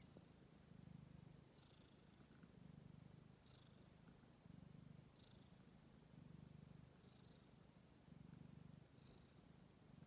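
Cat purring softly, in slow even swells about every two seconds as it breathes in and out.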